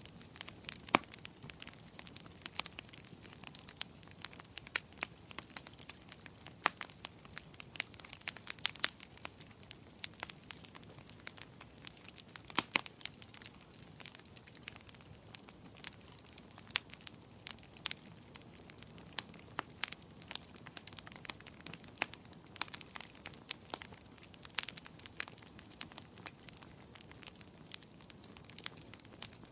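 Wood fire in a fireplace crackling, with irregular sharp pops of varying loudness over a soft steady hiss.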